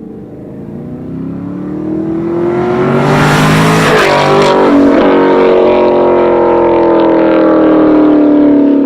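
Chevrolet Camaro SS's 6.2-litre LT1 V8 running through a Borla exhaust, accelerating: the engine note climbs over the first few seconds, then holds at high revs, easing slightly near the end, with a brief rush of noise about three to four seconds in.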